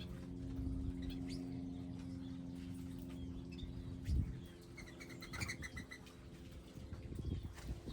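Small wild birds chirping, with a quick run of repeated high notes about five seconds in. A steady low hum runs under the first half, and a low thump comes about four seconds in.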